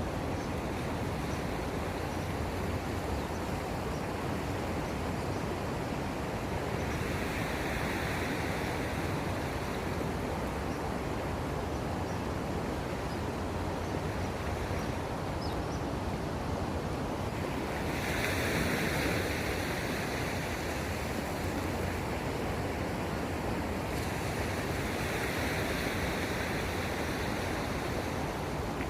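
Sea waves washing in at the shore, a steady wash with three louder surges of a few seconds each.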